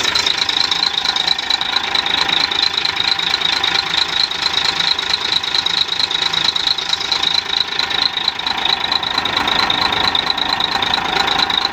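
Weichai diesel engine running steadily with its usual fast diesel clatter; with the faulty fuel injector replaced, the loud knock is gone.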